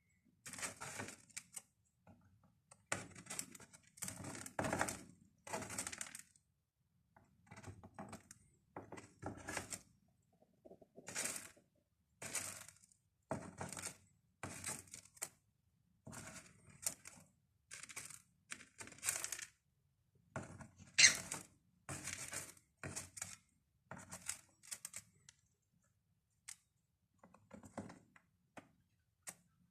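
A cockatiel scattering birdseed: short bursts of seeds rattling and clicking, roughly one a second, with the sharpest click a little after twenty seconds. The bursts thin out near the end.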